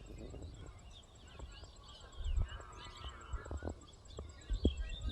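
Birds chirping, with a few short low thumps about halfway through and near the end.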